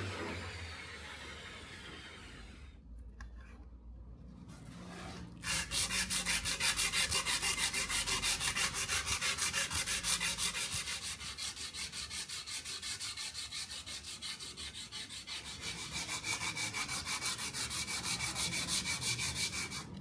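A power tool's motor spins down at the start. After a short pause, rhythmic back-and-forth abrasive rubbing strokes on the knife begin, like hand sanding, and carry on steadily at about two strokes a second.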